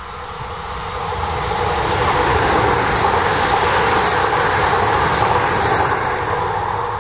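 Electric multiple-unit passenger train running past at speed: wheel-on-rail noise with motor hum that swells as it nears, holds loud for a few seconds while it passes, then begins to fade near the end.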